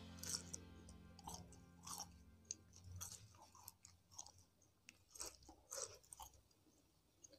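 Close-miked chewing of a last mouthful of crispy Indonesian fried snacks (gorengan): soft, irregular crunches and wet mouth clicks.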